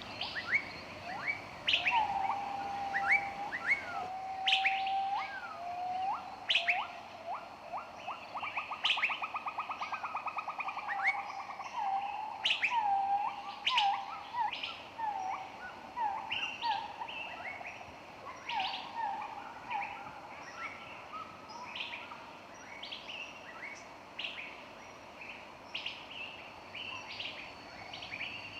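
Several songbirds chirping and singing together in woodland: many short sharp chirps with whistled notes, and one bird giving a fast rapid trill that slowly falls in pitch about a third of the way in.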